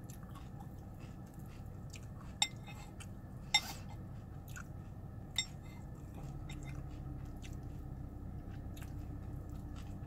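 A person chewing a mouthful of Cocoa Pebbles cereal in milk. Three sharp clicks stand out, about two and a half, three and a half, and five and a half seconds in.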